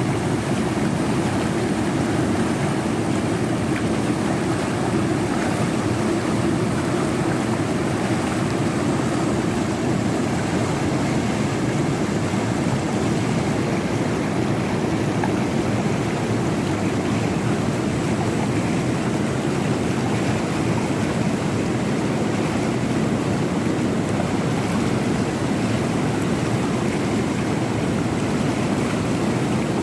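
Fast-flowing river water rushing steadily, a constant deep roar of churning water with no breaks.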